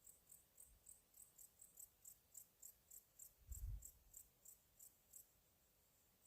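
Faint cricket chirping: short high chirps at about four a second that stop about five seconds in, with a brief low rumble about halfway through.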